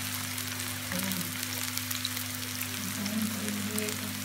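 Chopped onion, garlic and ginger sizzling in hot oil in a frying pan as they brown, a steady fine crackle. A steady low hum runs underneath.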